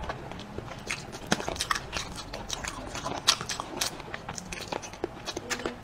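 A person chewing a mouthful of braised tiger-skin chicken foot close to the microphone: irregular wet clicks and smacks of the mouth, several a second.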